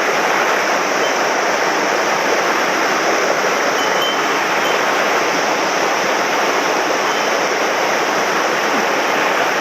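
Swollen mountain stream in spate after heavy rain, its fast current rushing loudly and steadily.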